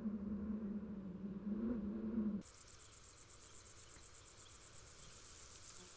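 A low steady hum for about the first two seconds, then a sudden cut to an insect trilling: a high-pitched, fast even pulsing of about nine pulses a second.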